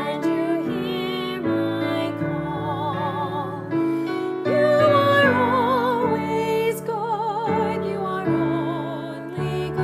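Hymn-style music: a voice singing slow held notes with vibrato over sustained piano or keyboard chords.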